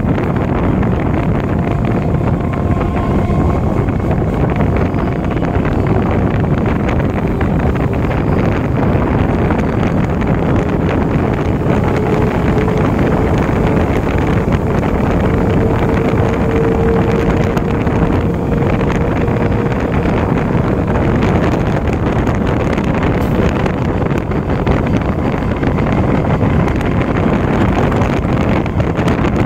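EMU local train running: a loud, steady rumble of the train in motion, with wind buffeting the microphone. A faint drawn-out whine rises over it for several seconds around the middle.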